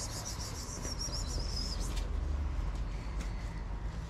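Small birds chirping: a run of high, twittering calls for about the first two seconds, over a steady low background rumble.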